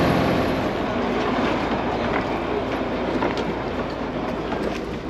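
Road vehicle on the move: a steady rumble with scattered rattles and knocks.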